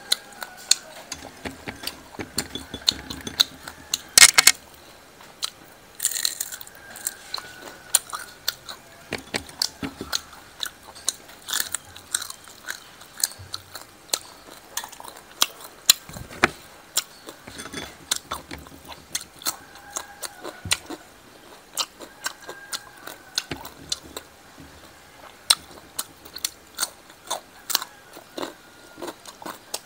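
A person chewing crunchy fried sparrow and raw cucumber close to the microphone: steady irregular crunches and wet mouth clicks. One loud crunch comes about four seconds in.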